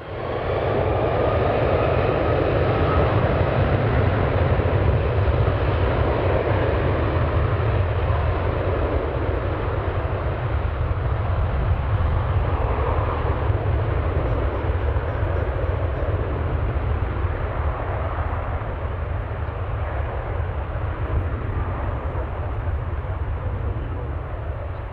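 Jet airliner engine noise, a deep rumble with a rushing hiss, loud as it cuts in at the start, then slowly fading as the aircraft moves away.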